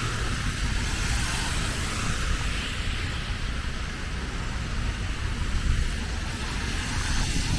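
Steady street traffic noise, an even hiss over a low rumble, with no single event standing out.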